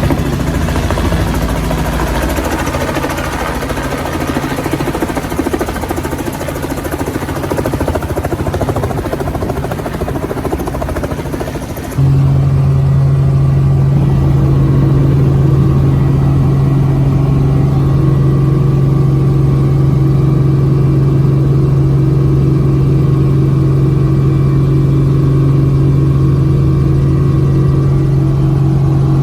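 Helicopter in flight: a loud, steady engine and rotor noise. About twelve seconds in it changes abruptly to a steadier, strong low hum of one pitch.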